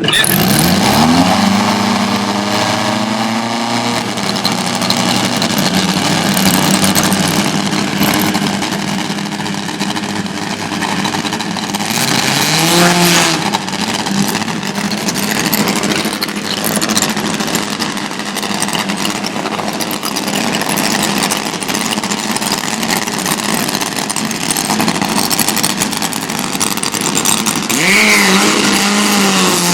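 Drag-racing motorcycle engines running at full throttle down the strip. The pitch climbs steeply at the start, then dips and climbs again about halfway through and near the end.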